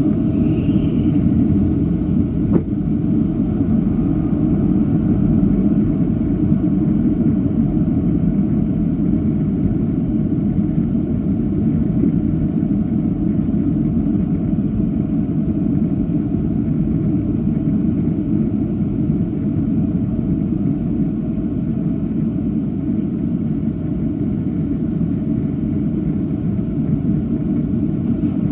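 Steady low rumble of a Boeing 757-200 jet airliner.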